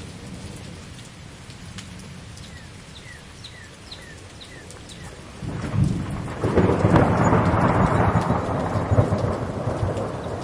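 Steady rain falling, then about halfway through a thunder rumble rolls in and grows loud, rolling on through the rest.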